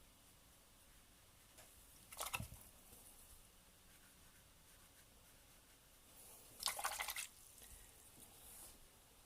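A paintbrush swished in a pot of water twice, giving brief splashy, dripping water sounds: a short one about two seconds in and a longer, louder one near seven seconds.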